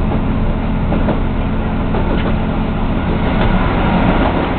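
A local diesel multiple-unit train running on the Slough–Windsor branch, heard as a steady rumble of engine and wheels on the rails, with a few irregular clicks.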